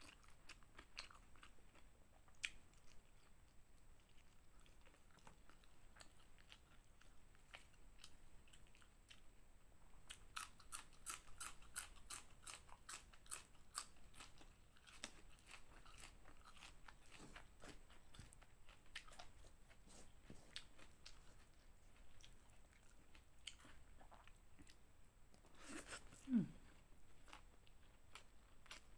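Close-up eating sounds: a person chewing with small wet mouth clicks, and a run of crisp crunches about ten to fourteen seconds in as raw greens are bitten and chewed. Near the end, the loudest sound is a brief low sound that drops in pitch.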